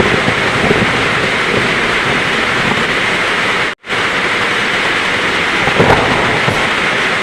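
Heavy rain pouring steadily in a thunderstorm, as a dense even hiss with low rumbling underneath. Just past the middle the sound cuts out completely for a split second and then resumes.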